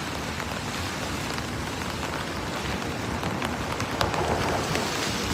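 Heavy rain falling steadily, an even hiss with scattered drop ticks, swelling briefly louder about four seconds in.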